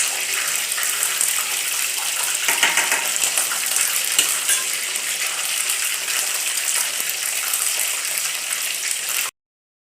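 Chicken pieces deep frying in hot oil: a steady sizzle with fine crackling that cuts out abruptly for a moment near the end.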